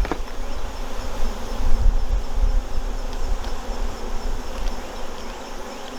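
Honey bees buzzing steadily around an opened hive, with a sharp click right at the start.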